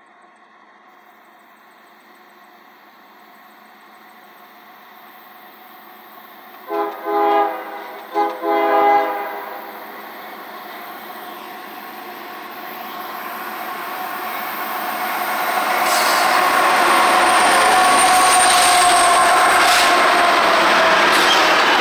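A CSX freight train led by GE diesel locomotives, an ES40DC in front, grows louder as it approaches. The lead locomotive's horn sounds two blasts about seven seconds in, each about a second long with a brief gap. From about sixteen seconds the locomotives pass close by, with loud engine and wheel-on-rail noise.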